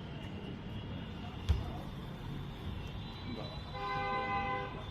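A vehicle horn sounds one held honk of about a second near the end, over steady background noise. A single knock comes about a second and a half in.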